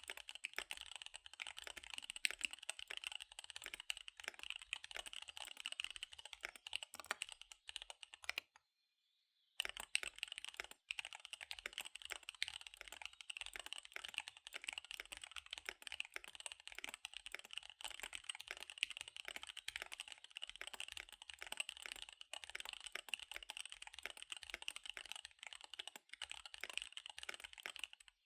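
Fast, continuous typing on a KBD75 V3 mechanical keyboard with SP-Star Dark Magic Girl tactile switches and DSA keycaps: a dense stream of key clicks, broken by a pause of about a second some eight and a half seconds in.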